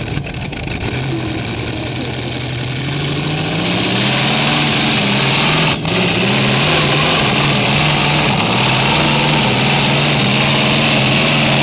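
Engine of an 18-cylinder pulling tractor running. Its revs climb a few seconds in, then hold high with the pitch wavering up and down, and dip for a moment about halfway through.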